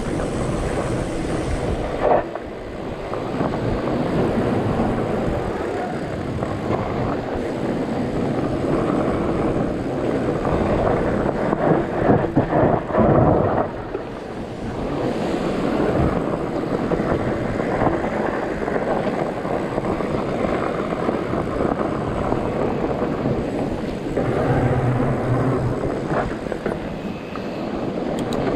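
Wind buffeting an action camera's microphone while a bicycle rolls and rattles down a dirt trail, with a sharp jolt about two seconds in and a rougher stretch near the middle.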